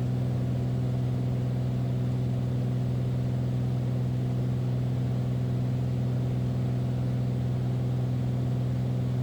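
Beechcraft Bonanza's piston engine and propeller droning steadily in cruise flight, heard from inside the cockpit, with a strong low hum.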